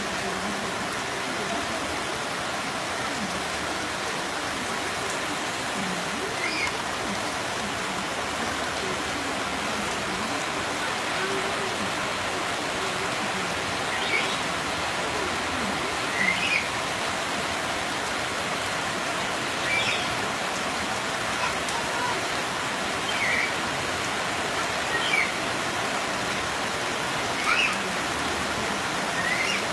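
Steady rain falling, an even hiss, with short high calls cutting in every few seconds over the second half.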